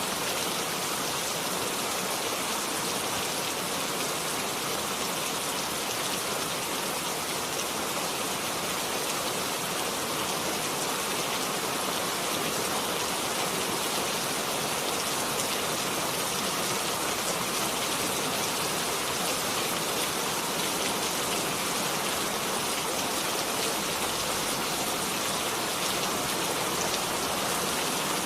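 Steady rain falling, a dense even hiss of drops with fine pattering.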